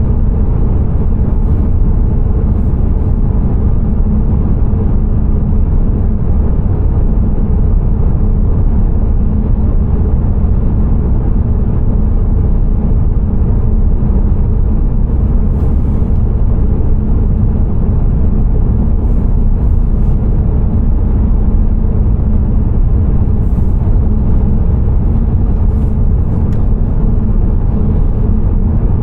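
Steady low rumble of a car driving along the road: engine, tyre and wind noise without change.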